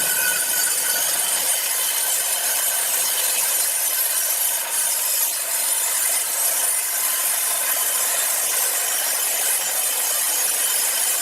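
A saw cutting steadily through timber: a continuous, even hiss of the cut that does not break or change through the stretch.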